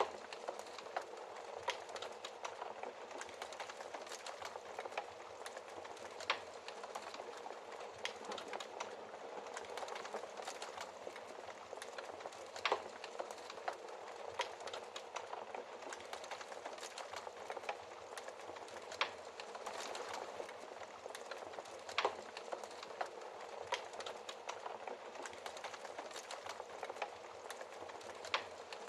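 Wood fire crackling in a fireplace: a steady soft hiss with many small irregular snaps, and a handful of louder pops.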